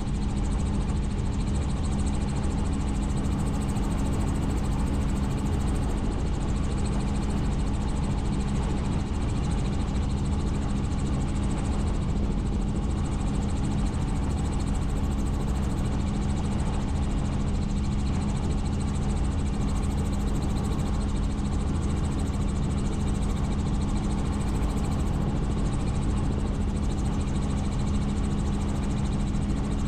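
Helicopter in flight: a steady engine and rotor drone with a constant hum.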